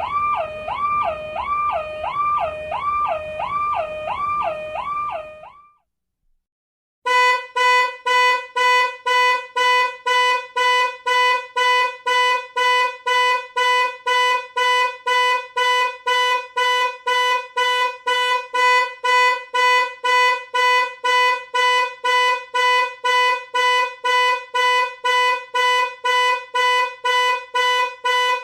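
Electronic car alarm sounds. First a two-tone warble switches rapidly between a low and a high pitch about twice a second and stops about five and a half seconds in. After a short silence a second alarm pattern starts: a steady-pitched beep repeating about twice a second.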